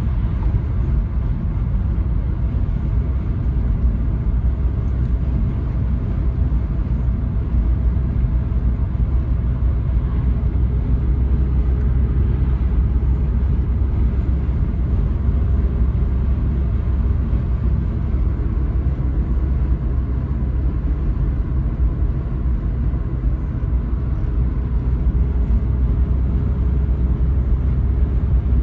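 Toyota Carina E's 1.6-litre 16-valve four-cylinder engine running steadily on the road, with tyre and road noise, as a constant low rumble that holds an even pace.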